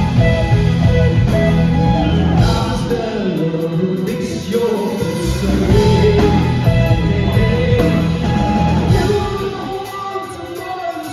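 Live progressive rock band playing, with guitar, bass and keyboards: full and bass-heavy at first, thinning out about three seconds in and getting quieter near the end.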